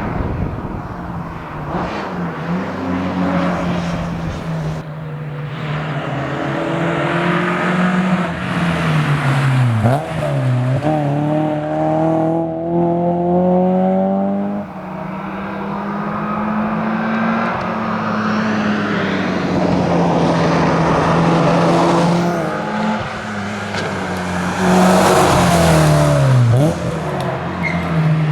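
Porsche 968 CS's 3.0-litre four-cylinder engine driven hard on a stage. Its pitch climbs as it accelerates through the revs, then drops sharply at gear changes about ten seconds in, near halfway and near the end.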